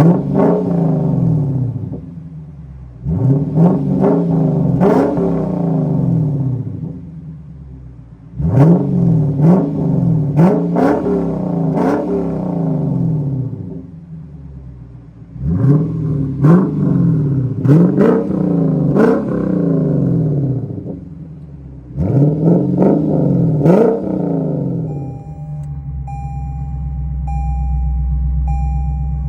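2025 Lexus IS 500's 5.0 V8 through a Street Demon performance exhaust, accelerating hard four times, the revs climbing and dropping back with each upshift and sharp cracks at the shifts. Near the end it settles into a steady low rumble.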